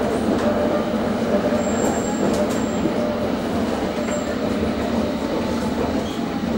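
Steady running noise of a London Underground S8 Stock train heard from inside the carriage. A brief, thin, high-pitched squeal comes about two seconds in and a fainter one a couple of seconds later.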